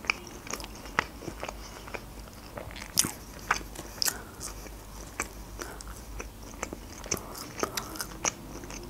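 A person chewing a mouthful of fast food close to the microphone, making many small irregular mouth clicks, with a few sharper ones about three to four seconds in and again near the end.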